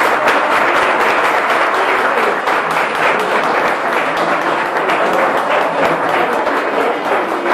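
A crowd applauding: loud, dense clapping that goes on steadily without a break.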